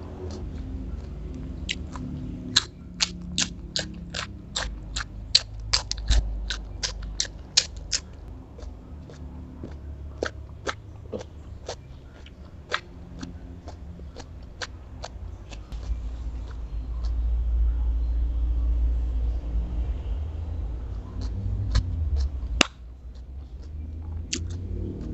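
Close-miked chewing of crisp raw cucumber: a quick run of sharp crunches, several a second, over the first eight seconds, then sparser crunches. Later a low rumble and one sharp knock.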